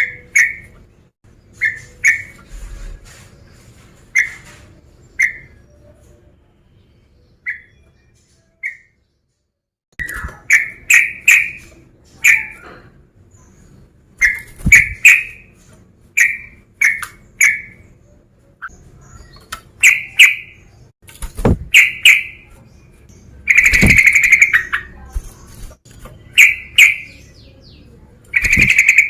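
Yellow-vented bulbul (trucuk) calling in short, bright chirps, sparse at first, then after a brief break about nine seconds in, faster clusters of chirping notes.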